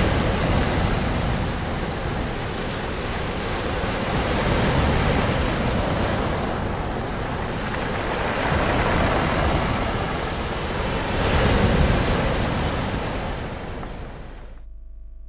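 Ocean waves breaking and washing in, the surf rising and falling in swells every few seconds. Near the end the hiss drops out abruptly, leaving a fading low rumble.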